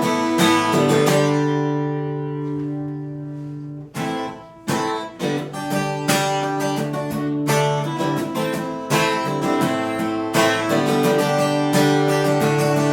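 Acoustic guitar strummed in chords, with no singing. About a second in one chord is left ringing for a few seconds, and after a short break the strumming picks up again.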